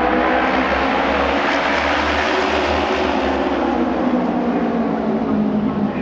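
Engines of Auto Race racing motorcycles at full race speed, a loud steady drone from the pack whose pitch sags slightly in the middle and climbs again toward the end.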